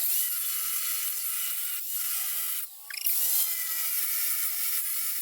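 Angle grinder cutting through the car's exhaust pipe, a steady high-pitched hissing grind with a short break about halfway through.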